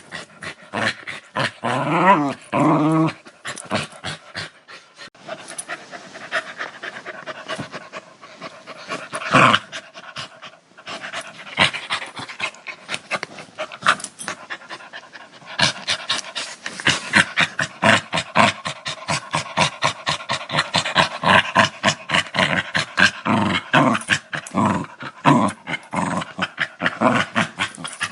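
Dog growling: a long run of short, rapid rasping pulses that thicken in the second half, with a pitched, wavering growl in the first few seconds.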